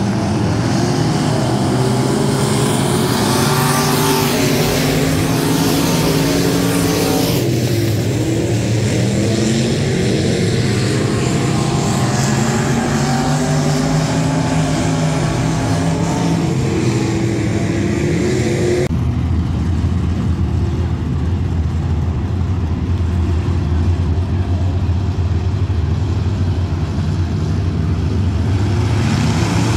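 Race car engines running at speed, their pitch rising and falling as the throttle comes on and off. About 19 seconds in the sound changes abruptly to a steadier, duller drone.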